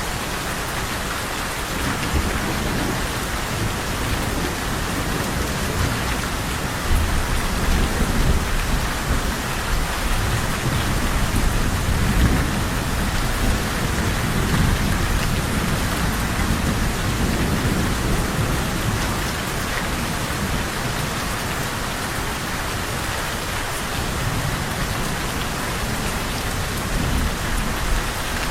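Steady rain falling, with low rolling thunder rumbling underneath that swells and grows louder about a quarter of the way in, then eases off.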